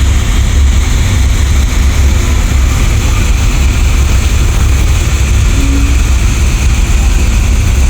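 Steady low rumble of hot-rod and custom car engines idling and creeping along in a slow parade.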